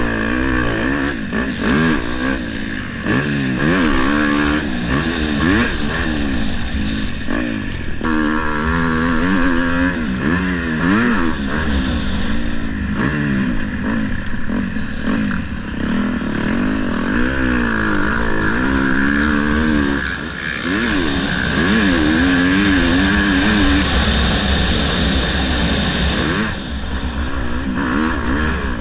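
Motocross dirt bike engine revving up and down over and over as it is ridden, its pitch climbing and dropping every second or two. The sound changes abruptly about eight and again about twenty seconds in.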